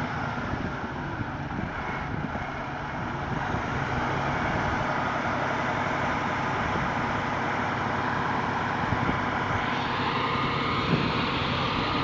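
Aerial ladder fire truck's engine running steadily.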